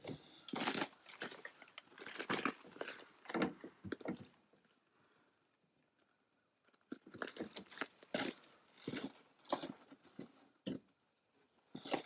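Irregular small clicks and scrapes of a bolt and its hardware being fitted by hand through a metal lamp guard and the Land Rover's aluminium body panel, with a pause of about two seconds in the middle.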